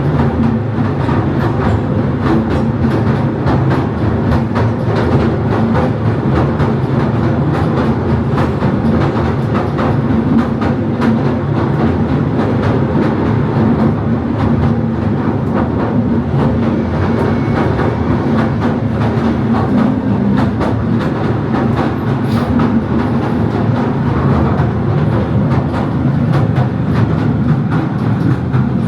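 Southend Pier railway train running along the pier: a steady rumble with fast, continual clicking and rattling from the wheels on the rails.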